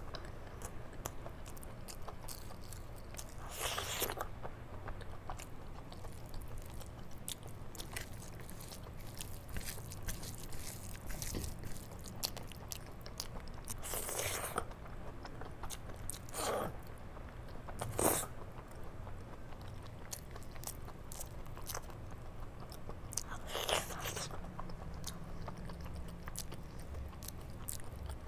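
Close-miked chewing and wet mouth sounds of a person eating pakoda kadhi with rice by hand: steady small smacks and clicks, with a few louder wet mouthfuls several seconds apart.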